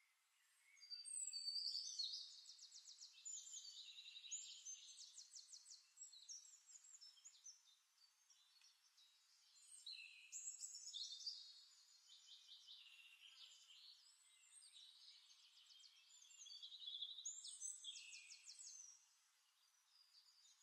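Faint birdsong: three bouts of quick, high trills and chirps, starting about a second in, near the middle and near the end.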